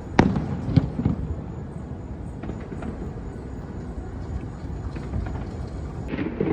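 Fireworks going off: a sharp crack about a quarter-second in and a few lighter pops over the first second or so, over a steady low rumble.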